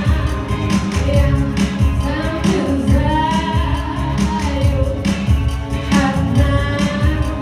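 Music with a woman singing a sustained, wavering melody over a steady, heavy bass beat.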